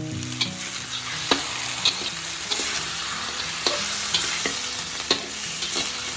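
Food frying in hot oil with a steady sizzle, stirred in the pan with a spatula that knocks and scrapes against it at irregular intervals.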